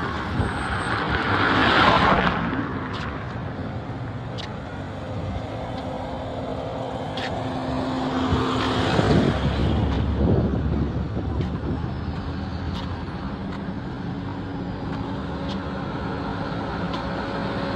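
Road traffic: motor vehicles passing close by, two of them swelling up and fading away, about two seconds in and again around nine seconds, over a steady hum of engines and tyres.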